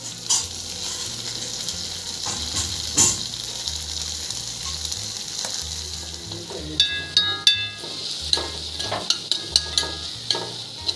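Tomato and onion masala frying with a steady sizzle in a steel kadai while a steel spoon stirs it. About two-thirds in, the spoon clinks and scrapes sharply against the pan several times, with a brief metallic ring.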